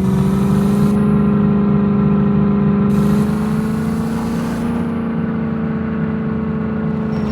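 Jeep engine running steadily under way, with a low, even hum whose pitch rises slightly a few seconds in and then holds.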